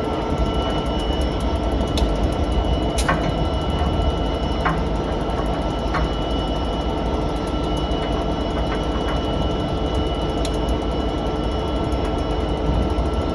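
Diesel freight locomotive idling: a steady low rumble with a faint high whine, with a few sharp metallic clicks in the first half.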